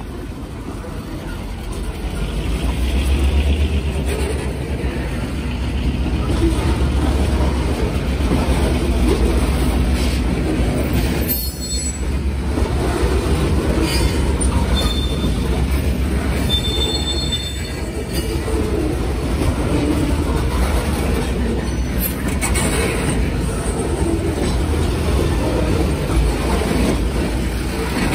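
A freight train rolling past with a steady low rumble, with short high-pitched wheel squeals a little past the middle.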